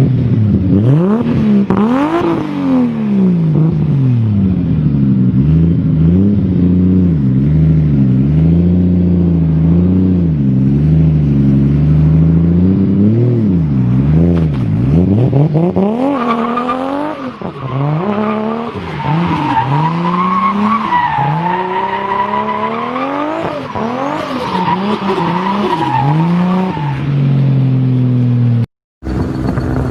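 Toyota Supra's 2JZ straight-six engine revving again and again, the pitch rising and falling in quick blips. About halfway in the revs run higher and a steady high whine rides over them; the sound cuts out for a moment near the end.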